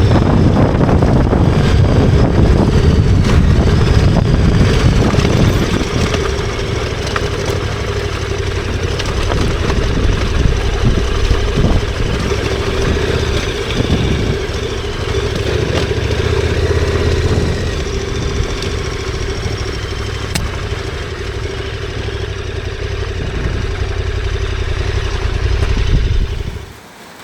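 KTM 1290 Super Adventure R's V-twin engine running as the motorcycle is ridden, loudest for the first five or six seconds and then lower and steady. The sound stops abruptly near the end.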